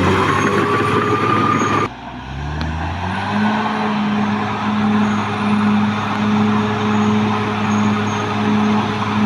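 Caterpillar D6R XL bulldozer's diesel engine working, with a high rising whine over it. The sound breaks off abruptly about two seconds in, then the engine note climbs for about a second and settles into a steady run.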